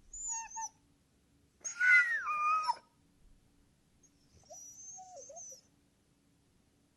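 Dog whining: three high-pitched whines, the loudest about two seconds in and falling in pitch, a fainter one near the end.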